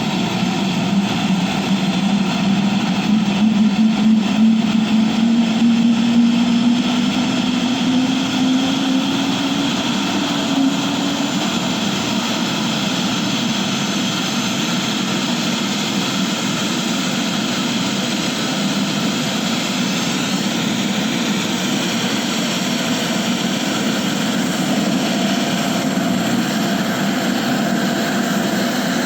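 Helicopter in flight, heard from inside the passenger cabin: a loud, steady drone of engine and rotor noise. A tone rises slowly in pitch over the first ten seconds or so, then fades into the drone.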